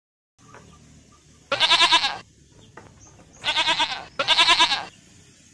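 Three wavering bleats from a goat or sheep-type farm animal: one about a second and a half in, then two close together near the end.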